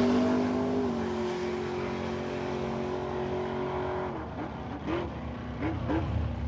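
Drag racing car engine running down the track and fading away, its pitch stepping down about a second in and again near the end as it slows.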